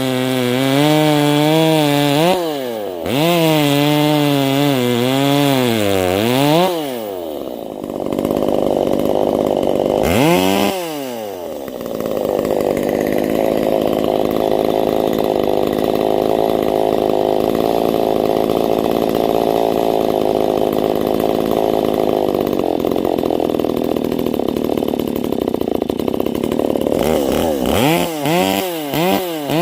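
Ported, muffler-modded Stihl MS250 (025) two-stroke chainsaw revving, its pitch rising and falling for the first several seconds. It drops back about 7 s in, revs up again, then runs steady under load for a long stretch, cutting through frozen white oak. Near the end it revs up and down again.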